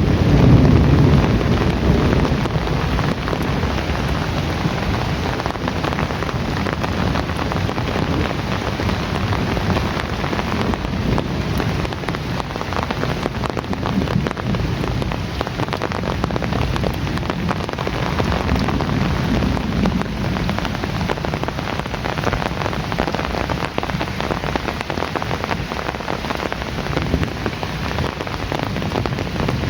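Heavy rain falling steadily on a surface, an even hiss of drops, with a low rumble of thunder dying away in the first couple of seconds.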